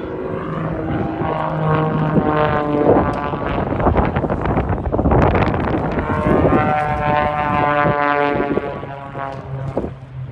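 Aircraft flying past overhead, a loud engine rush with layered engine tones that builds over the first couple of seconds and eases off near the end.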